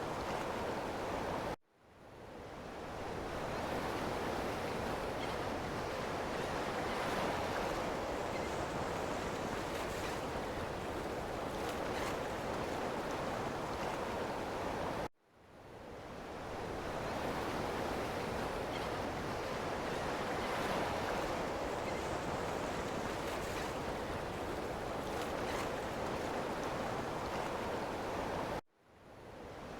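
Ocean surf: a steady rushing wash of waves, cut off abruptly three times at even spacing, about every 13.5 seconds, and each time fading back in over a second or two, as at the seam of a looped recording.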